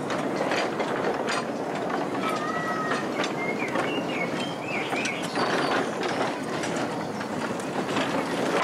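Miniature railway train running along the track: a steady running noise with irregular clicks, and a few short high chirps between about two and five seconds in.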